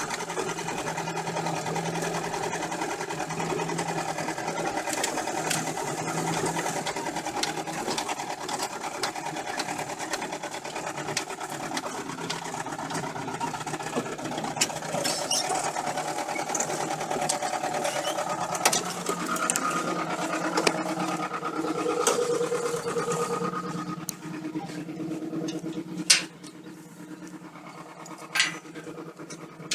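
UMZ-417 four-cylinder petrol engine running with a rapid, diesel-like knocking clatter from under the front timing cover, which the owner puts down to a failed camshaft gear. Near the end the sound drops off sharply and a few loud clicks follow.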